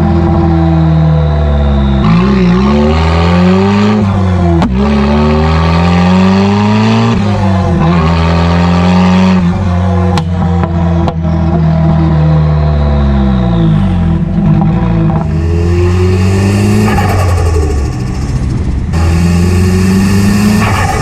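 Straight-piped Nissan S15 Silvia's turbocharged SR20 four-cylinder pulling through the gears. The engine note climbs and drops again and again with each shift, with a few sharp cracks along the way and more hiss in the last few seconds.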